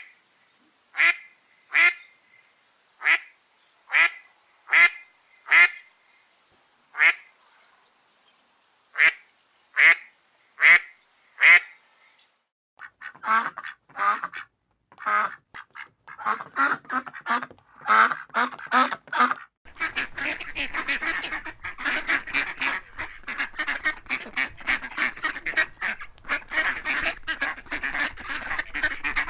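Ducks quacking. For about twelve seconds there are single loud quacks, roughly one a second with pauses, then quicker runs of quacks. From about twenty seconds in, a whole flock quacks over one another without a break.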